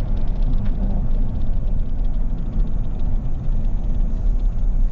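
Pickup truck engine running and tyre rumble heard from inside the cab while driving at low speed: a steady low drone with road noise.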